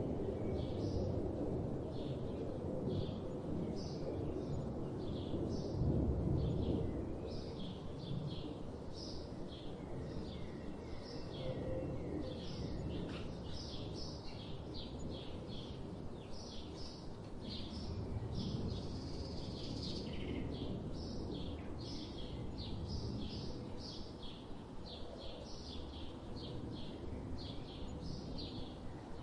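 Small birds chirping repeatedly in quick short notes, over a steady low background rumble that is louder for the first few seconds.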